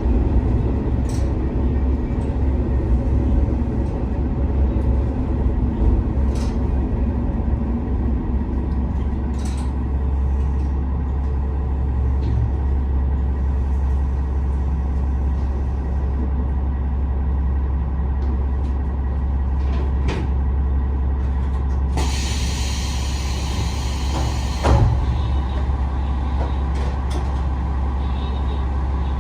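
Diesel engine of a KiHa 47 railcar running steadily, heard from inside the car as a deep, constant drone. About three-quarters of the way through comes a hiss of compressed air lasting between two and three seconds, which ends in a short knock.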